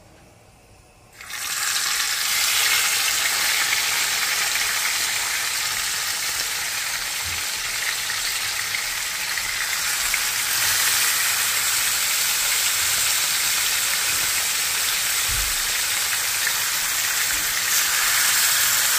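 Unbreaded pork chops laid into hot oil in a frying pan: a loud sizzle starts suddenly about a second in, as the first chop hits the oil, and keeps going steadily as more chops are added.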